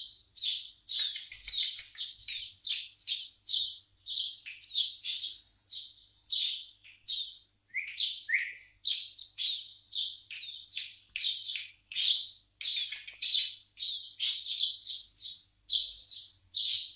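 Eurasian tree sparrow chirping over and over in quick short notes, about two to three a second. Around the middle come two lower notes that slide downward.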